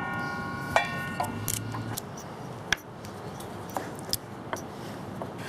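A power saw's whine dies away in the first second or two after cutting small wooden blocks. Scattered light knocks and clicks of wood pieces being handled follow.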